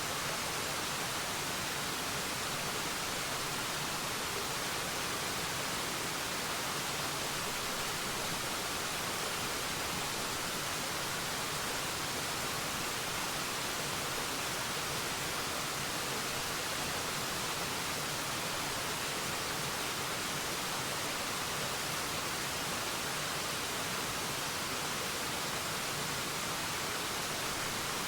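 Waterfall rushing: a steady, even hiss of falling water with no changes or separate splashes.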